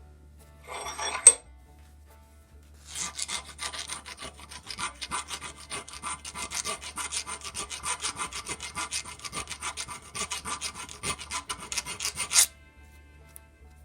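Hand file rasping on a metal part in quick back-and-forth strokes, several a second, for about nine seconds and then stopping abruptly, after a short single scrape about a second in.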